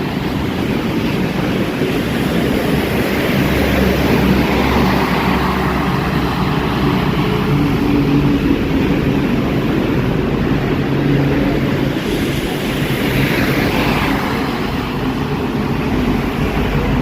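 Highway traffic in heavy rain: vehicle engines running under a steady hiss of rain and tyres on the wet road. A heavier engine rumble comes in about a quarter of the way through, and a vehicle swishes past near the end.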